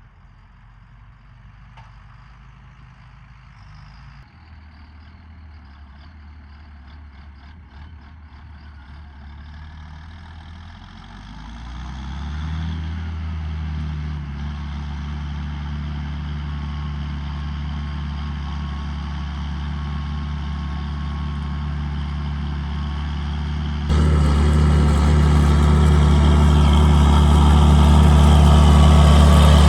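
John Deere 7800 tractor's six-cylinder diesel engine running. It grows louder, rises in pitch as it revs up about twelve seconds in, then holds steady. About six seconds before the end it abruptly becomes louder, with more noise on top.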